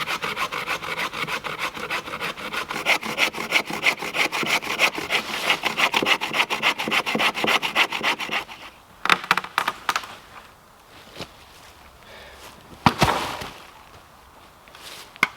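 Hand saw cutting through a dead tree trunk in quick, even back-and-forth strokes, which stop about eight seconds in. A few sharp cracks and knocks follow, the last one near the end.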